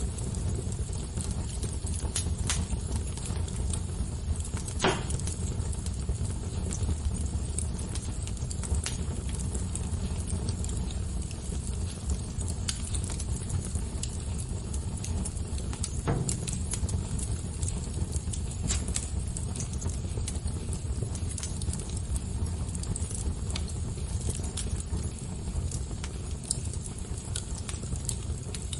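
Fire crackling steadily over a low rumble, with many small snaps and a couple of sharper pops.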